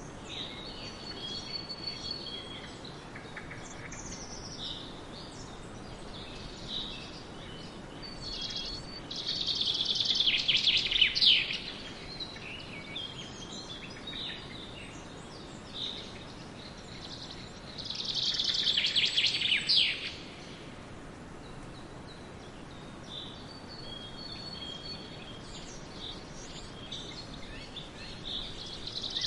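Birds chirping over a steady hiss, with two louder bursts of rapid, high, trilling calls: one about a third of the way in and one about two-thirds through.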